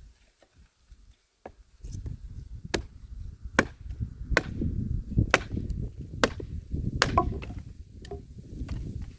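Homemade axe chopping wood: about eight sharp strikes, roughly one a second, starting about a second and a half in, over a low rumbling noise.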